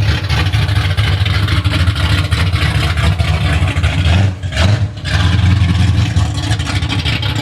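A car engine running loudly and steadily, easing off briefly about halfway through and then picking up again.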